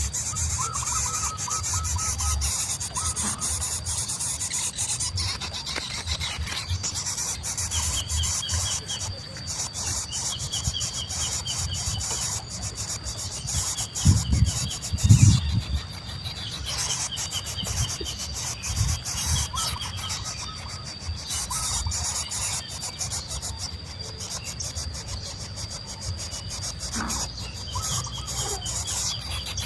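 Steady high insect drone with repeated short series of bird chirps coming and going, and a few low thumps about halfway through.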